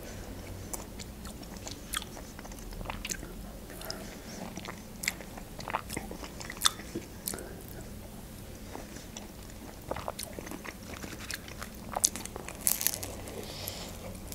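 Close-up eating sounds: chewing with short, sharp wet clicks and smacks of the mouth, and a bite into a shawarma wrap near the end.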